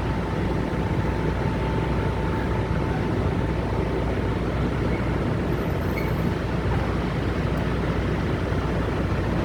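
Steady low rumble of idling truck engines, unbroken throughout.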